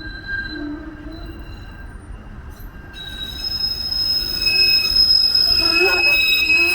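TTC Flexity Outlook streetcar's steel wheels squealing against the rails as it rounds the tight curve of the loop. The sound is a steady, shrill squeal of several tones at once. It is fainter at first, then jumps up about three seconds in and grows louder, and it is "so noisy".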